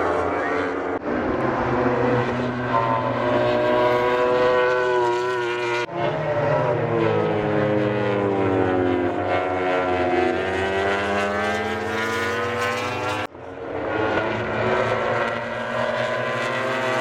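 MotoGP race bike engines at speed, their notes sweeping down and up in pitch as bikes pass and shift gear. Abrupt cuts about a second in, near six seconds and about thirteen seconds in join several separate passes.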